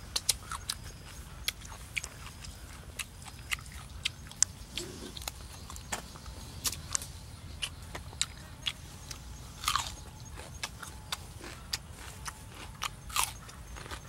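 Close-up eating sounds: lip smacks and crunchy chewing of raw cucumber, heard as a string of irregular sharp clicks, with a few louder crunches about ten and thirteen seconds in.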